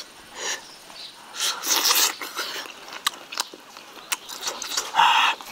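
Close-up eating sounds: a person chewing roast chicken with wet lip smacks and a run of sharp mouth clicks, while the meat is pulled apart by hand.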